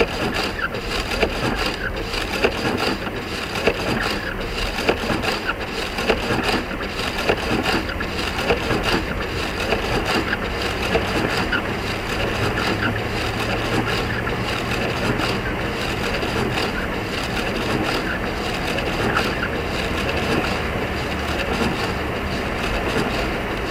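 Audi quattro driving over a snowy, icy road: steady road noise with continual crackling and crunching of packed snow and ice under the tyres, over a low hum.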